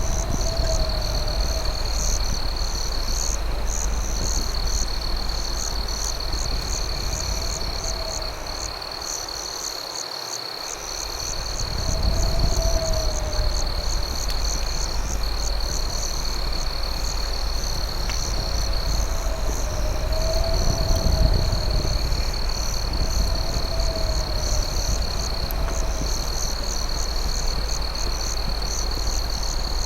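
Night chorus of crickets: a steady high-pitched trill with brief breaks, faster chirping above it, and a lower warbling call repeating every few seconds, over a low steady rumble that drops away for a moment midway.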